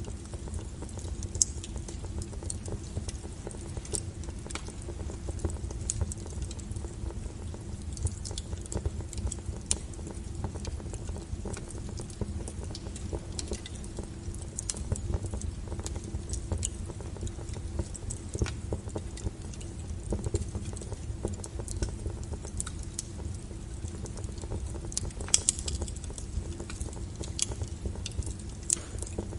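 Wood fire burning, with a steady low rumble and frequent small sharp crackles and pops scattered throughout, a few louder pops near the end.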